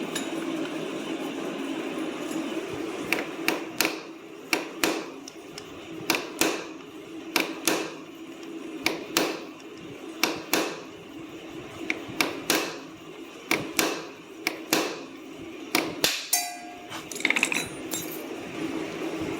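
Repeated sharp hammer blows on metal, roughly one or two a second from about three seconds in until near the end, while a stuck bevel-gear bearing in a Bajaj Pulsar 150 engine case is broken out in pieces. A steady low hum runs underneath.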